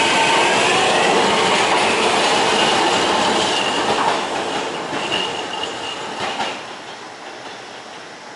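Train running past and moving away, with a high squeal or whine over the rumble of the wheels. It fades steadily through the second half.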